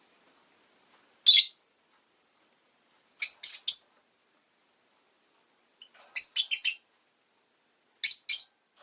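Rosy-faced lovebird giving shrill chirping calls in four short groups, each a quick run of two to four notes, with quiet gaps between.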